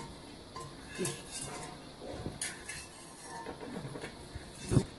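Metal ladle clinking and scraping against a kadai and bowl in a few separate knocks while fried peanuts are scooped out and tipped into the boondi, with a heavier thump near the end.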